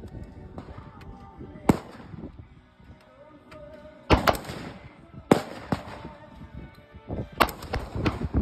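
Gunshots fired at a shooting range: sharp single reports a few seconds apart, with two in quick succession near the end.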